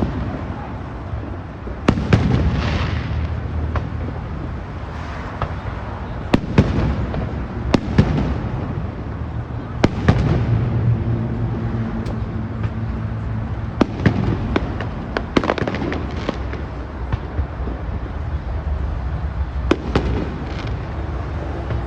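Fireworks display with sharp bangs every few seconds, each followed by a rolling rumble.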